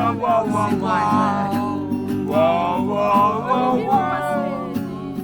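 Acoustic guitar strummed while a voice sings a wordless, sliding melody.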